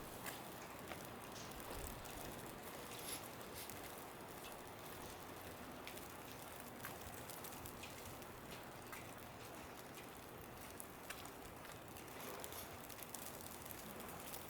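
Quiet street ambience with snow falling: a steady soft hiss with scattered faint ticks.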